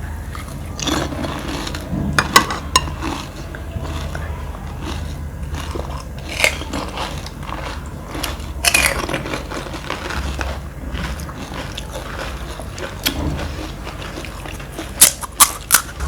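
Crisp panipuri shells crunching and cracking as they are bitten and chewed, with scattered sharp crackles and a quick run of three loud cracks near the end.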